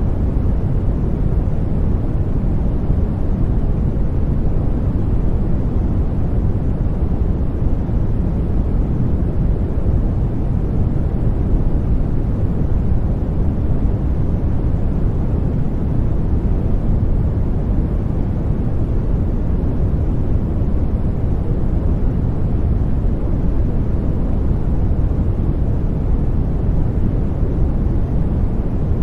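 Steady, unchanging noise played for baby sleep: a deep, rumbling hiss, heaviest in the low end and thinning out toward the treble, with no breaks or events.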